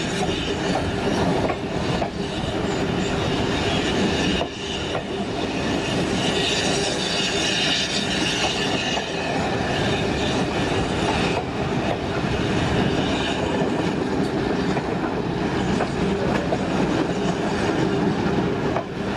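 Ride noise of a preserved steam train in motion, heard from an open carriage window: a steady rumble of wheels on the rails as a small 0-4-0 saddle tank locomotive hauls the carriages.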